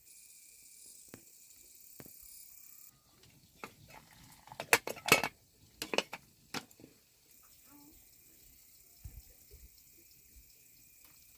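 A quick run of sharp clattering knocks, like hard objects being handled, for about three seconds in the middle, loudest about five seconds in, with a few faint ticks before and after.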